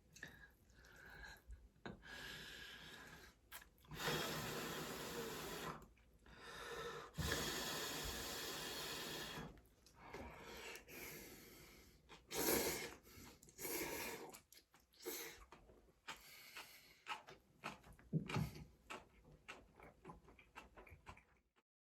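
A person eating close to the microphone: two long, breathy exhales a few seconds in, followed by chewing and small mouth and tableware clicks that thin out towards the end.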